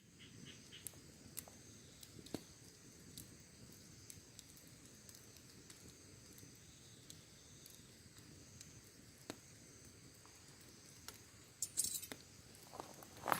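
Wood fire crackling quietly: scattered sharp pops over a soft low rustle, a brief burst of hissing crackle about twelve seconds in and a louder pop at the end. Faint steady insect chirping sits underneath.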